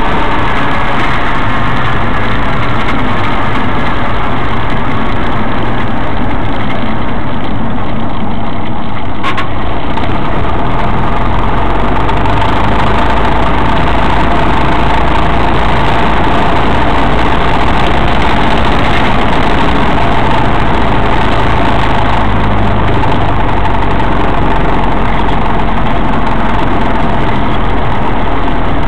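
Cessna 172's piston engine and propeller droning steadily, heard inside the cockpit. A brief click comes about nine seconds in, after which the low drone grows heavier.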